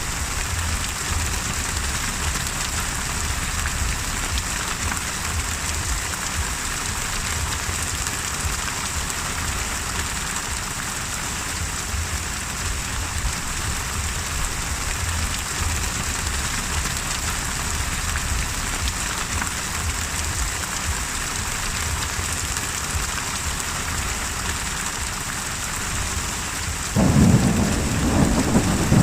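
Steady heavy rain hissing over a low rumble of a thunderstorm. Near the end, a loud roll of thunder breaks in suddenly.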